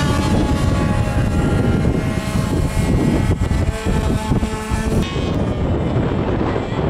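Radio-controlled model aircraft engines running at speed.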